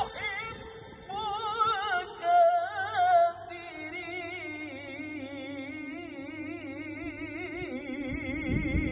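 Solo male voice reciting the Quran in the melodic tilawah style, with wavering, ornamented phrases and then a long held, quivering note from about three seconds in.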